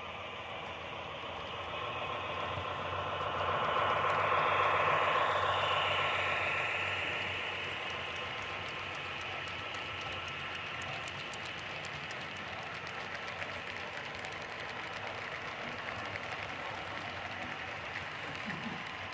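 HO-style model diesel locomotive and train running on layout track: a steady electric-motor whine with wheel rumble. It grows louder as the train passes close about four to five seconds in, then settles into an even run with faint clicking from the wheels on the rails.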